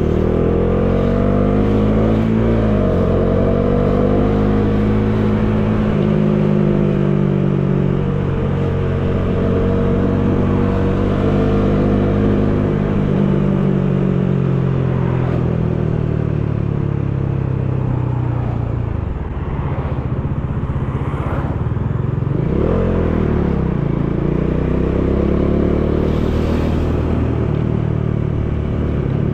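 Bajaj Dominar 400's single-cylinder engine riding along, its pitch climbing and dropping as it accelerates, shifts and eases off. There are quick rises at the start, a long slow swell and fall through the middle, a brief let-off, then another quick rise. Wind rushes steadily underneath.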